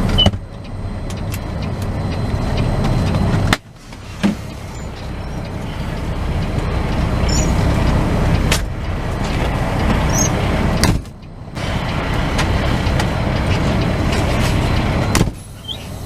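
Tractor-trailer's diesel engine running under load. Its sound builds steadily, drops off briefly three times and builds again after each drop.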